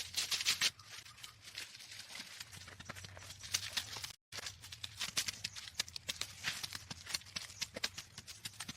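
A dense run of irregular sharp clicks and crackles. It breaks off for a moment about four seconds in and starts again.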